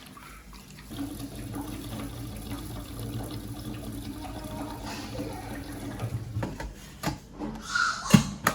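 Water running steadily, stopping about two-thirds of the way through, followed by a few sharp knocks and clatters, the loudest near the end.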